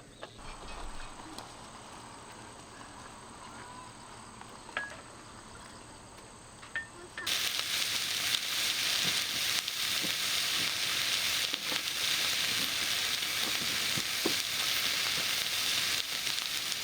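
Food sizzling and frying in a hot pan, a dense steady hiss with scattered crackles that starts abruptly about seven seconds in; before it, a quieter stretch with a few light clicks.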